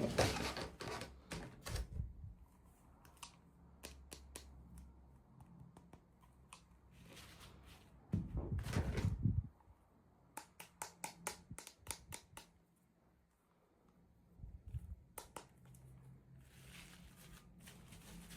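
Small plastic toy pieces and packaging being handled: scattered light clicks and taps, a louder rustle about eight seconds in, then a quick run of clicks.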